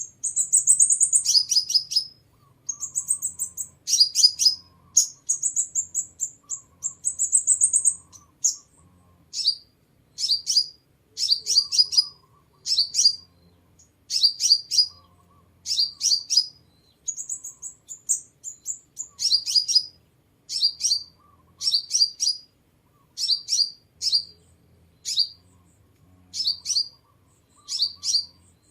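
Sunbird calling: high, fast trills through the first eight seconds or so, then a steady series of short, sharp descending notes in quick clusters, about one cluster a second.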